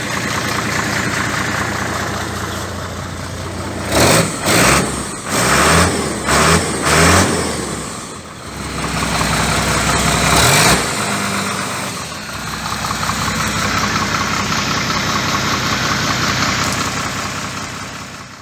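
Isuzu 6HE1 inline-six diesel engine idling, then revved in a quick series of short throttle blips about four seconds in, and a longer rev a few seconds later, before settling back to a steady idle.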